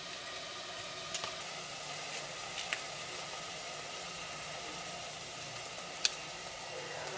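Food sizzling in a frying pan, a steady hiss with a few sharp pops.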